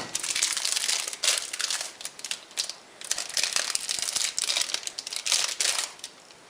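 Packaging being crinkled and rustled by hand as angle-grinder parts are unwrapped, an uneven crackling with sharp rustles and brief tearing.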